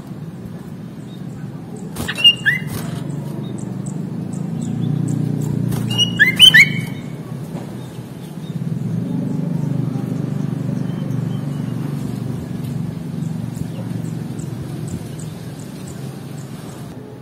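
Sooty-headed bulbul (kutilang) giving two short bursts of loud, sharp chirps, about two seconds in and again around six seconds in, over a steady low rumble.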